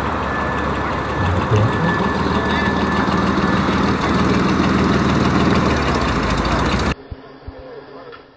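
A car engine idling steadily, which stops abruptly about seven seconds in and gives way to much quieter background noise.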